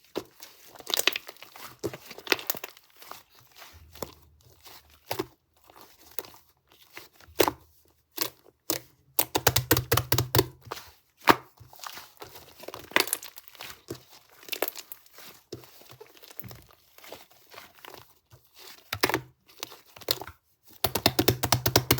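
Slime being squeezed, folded and stretched by hand, giving sticky clicks and crackling pops. Dense runs of rapid clicks come around the middle and again near the end.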